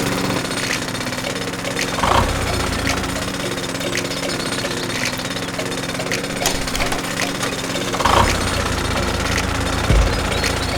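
Small electric motor of a miniature model machine running steadily with a fast buzzing rattle, with a few low thumps about two and eight seconds in and near the end.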